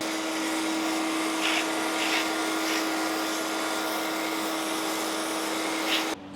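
High-pressure washer spraying: a steady hiss of water jet over a pump hum, with a few brief brighter spurts, cutting off suddenly near the end.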